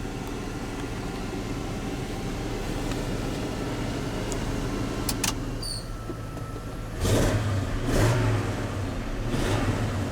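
7.4-litre (454) big-block V8 of a 1994 Chevrolet truck idling steadily, then revved in three short blips in the last few seconds.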